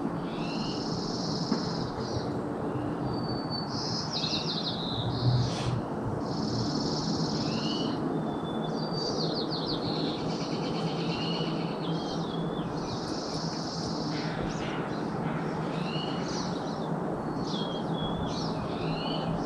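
Songbirds singing short, repeated high phrases, buzzy notes and quick downward sweeps, every second or two over a steady low background rumble, with one soft low thump about five seconds in.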